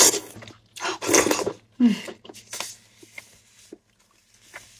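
Close-up eating sounds: wet chewing and mouth smacking on meat, with the crinkle of plastic gloves as the meat is pulled apart. The sounds come in irregular bursts, loudest in the first second and a half, then thin out to faint clicks.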